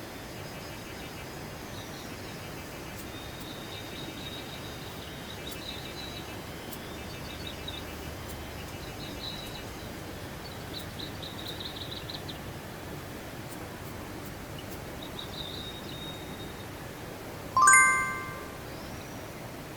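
Steady rush of a mountain stream, with birds chirping and trilling over it. Near the end a single loud metallic clink rings out briefly and fades.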